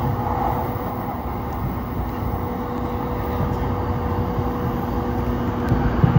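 Electric commuter train running at speed, heard from inside the car: a steady rumble of wheels on the rails with a constant electric hum.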